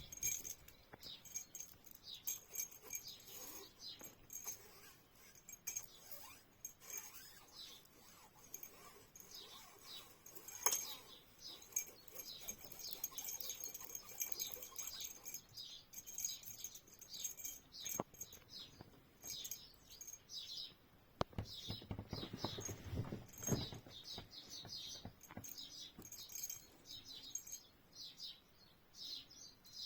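Small birds chirping repeatedly in quick, short calls. A burst of low rustling rumble comes about two-thirds of the way through.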